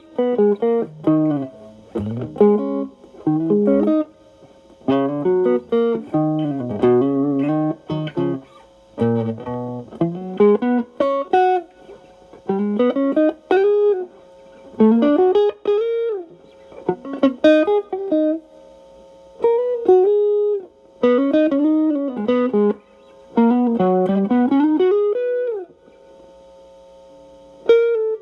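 Stratocaster electric guitar through a Xotic AC Plus overdrive pedal into a Marshall Valvestate amp, playing single-note lead phrases with string bends and short pauses between them. The tone is the pedal's drive cleaned up by rolling back the guitar's volume.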